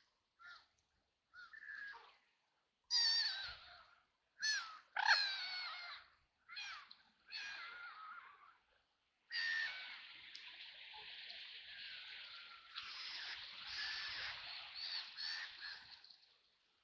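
White domestic ducks quacking: a few short quacks, then several loud, harsh quacks from about three seconds in, and a long unbroken run of rasping quacking from about nine seconds in.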